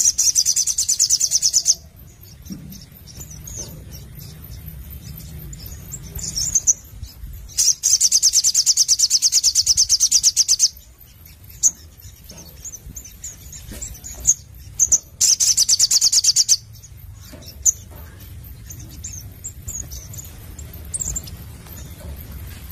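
Sogon (spiderhunter) singing in three bursts of rapid, high-pitched repeated notes: at the start, a longer one of about three seconds from about 8 seconds in, and a short one around 15 seconds in, with scattered single chirps between. A low steady hum runs underneath.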